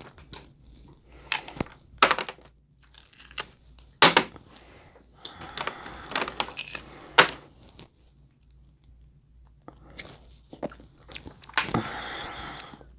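Crab leg shells being cracked and pulled apart by hand, with chewing: a string of sharp cracks and smaller crunching, the loudest snaps about two, four and seven seconds in, then a short lull before more cracking near the end.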